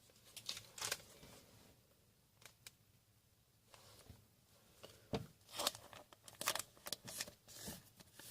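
Faint rustling and crinkling of trading cards and pack wrappers being handled, with scattered short crackles that grow busier in the second half.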